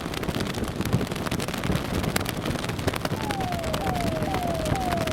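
Noise of a motorcycle convoy, with a dense crackle of sharp pops. About three seconds in, an electronic siren sounds a repeated falling tone: four quick downward sweeps, each about half a second.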